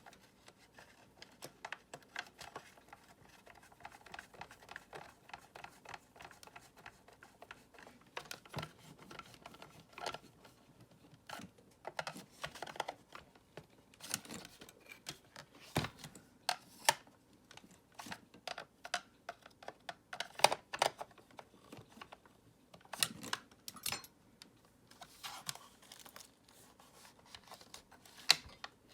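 Irregular small clicks, taps and knocks of a Dyson vacuum cleaner's hard plastic parts being handled and fitted together during repair work, spaced unevenly.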